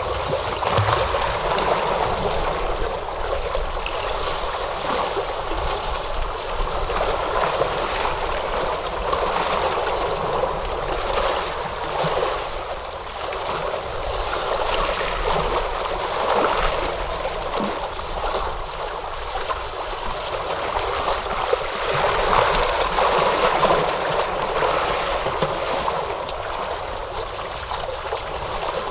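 Ocean waves washing in: a continuous rush of surf that swells and eases every several seconds.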